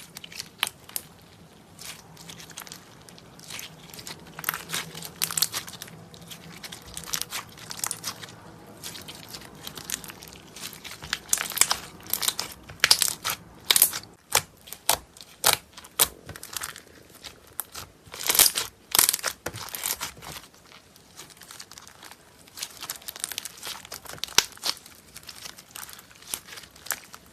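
Slime being squeezed and worked by hand, giving many small, irregular crackles and pops that come thickest through the middle stretch.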